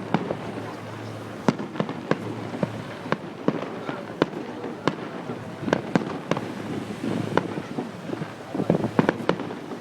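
Fireworks display: shells bursting in a rapid, irregular series of sharp bangs, with a dense cluster of louder bangs near the end.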